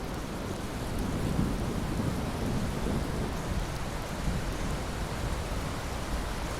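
Steady heavy rain with a low rolling thunder rumble underneath, swelling briefly a second or two in.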